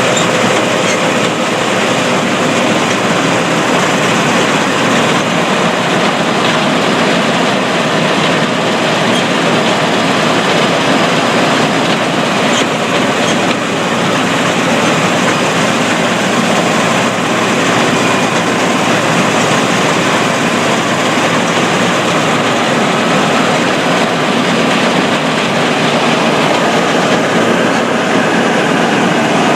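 Combine harvester running steadily during the wheat harvest, a loud, even machine noise with no breaks or changes.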